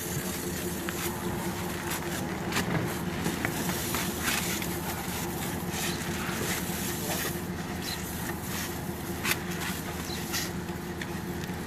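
An engine running steadily, with scattered knocks and scrapes over it.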